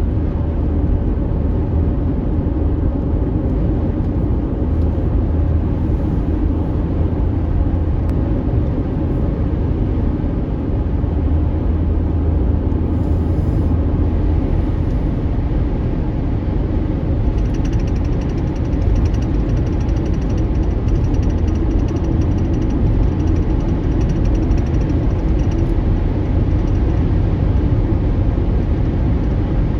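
Steady rumble of a car driving on a dusty gravel road, engine and tyre noise heard from inside the vehicle.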